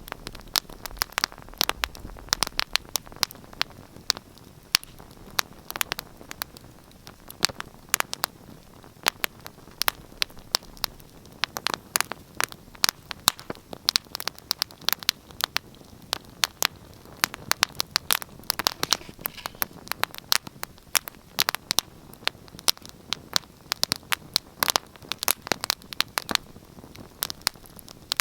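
Wood fire burning in a fireplace: a soft steady hiss with frequent irregular crackles and sharp pops.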